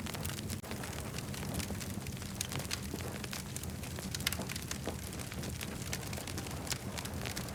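Campfire crackling, with frequent sharp irregular pops and snaps of burning wood over a steady low rumble.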